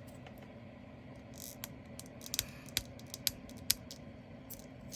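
Light, irregular plastic clicks and taps from handling small diamond-painting drill containers and storage boxes, busiest in the middle of the stretch.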